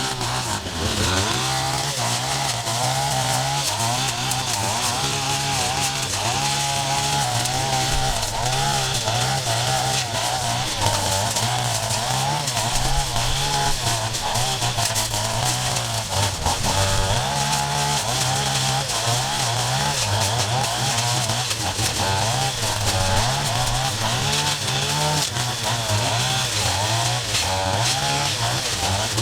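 Small petrol engine of a handheld yard-clearing power tool running without a break, its pitch revving up and down over and over as it cuts.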